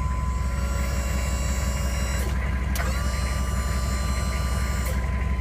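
Electric-over-hydraulic dump bed pump motor whining as it runs. It stops about two seconds in, then spins up again and runs for about two more seconds before stopping near the end. Under it, the truck's 6.5-litre V8 diesel idles steadily.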